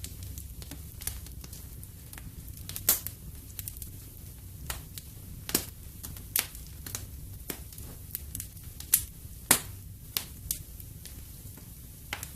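Wood fire in a fireplace crackling, with irregular sharp pops, a few of them louder, over a low steady rumble of the flames.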